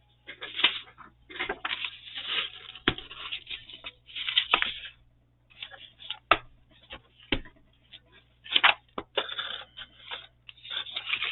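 Paper being handled: irregular rustling and crinkling, with a few sharp taps against the work surface.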